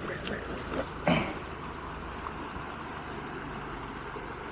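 Steady rush of a mountain brook, with a short throat-clearing sound about a second in.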